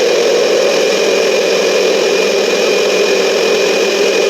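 Countertop blender running at a steady speed, a loud even whir, blending a smoothie of frozen fruit until no hard chunks remain.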